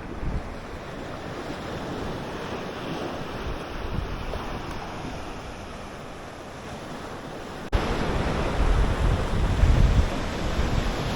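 Waves washing onto the beach with wind buffeting the microphone. About three-quarters of the way through the sound jumps suddenly louder, with heavier wind rumble.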